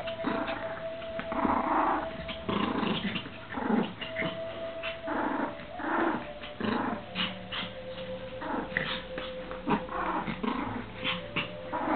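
Small dogs, a Pomeranian and a Lhasa Apso, growling in play over a frisbee, in a run of short rough growls, each about half a second.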